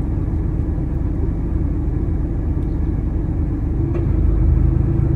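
Car engine idling, heard from inside the cabin as a steady low hum that grows slightly louder about four seconds in.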